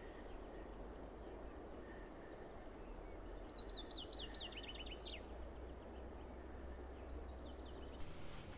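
Songbirds singing outdoors: one bird gives a rapid run of short notes falling in pitch, starting about three seconds in and lasting some two seconds, with faint scattered calls before it and a second, shorter falling run near the end, over a faint steady low rumble.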